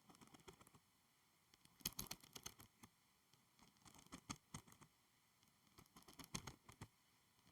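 Soft tapping and clicking on school supplies, in four short flurries of quick taps about two seconds apart.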